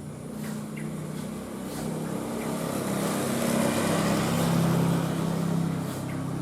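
A motor vehicle's engine passing by, its hum growing louder to a peak about four to five seconds in and then fading a little. A few faint short bird chirps sound over it.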